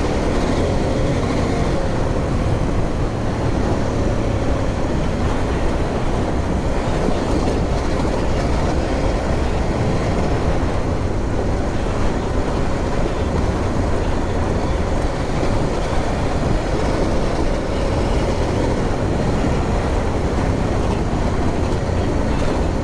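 Adventure motorcycle riding along an off-road lane: the engine running steadily under way, mixed with wind and rough-track noise.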